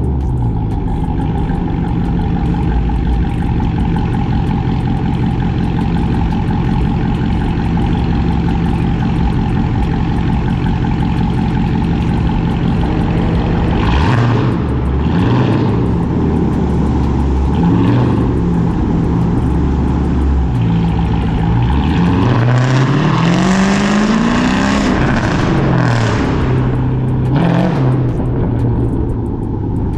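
Cammed, catless, straight-piped Chrysler 300C HEMI V8 exhaust. It runs steady and low for about the first half, then revs up and down several times, with one longer rising rev that falls back about three-quarters of the way through.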